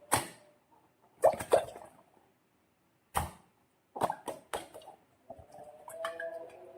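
Sharp wet snaps and clicks from slime and balloons being handled, some single and some in quick clusters of three or four. A thin squeaky whine comes in near the end.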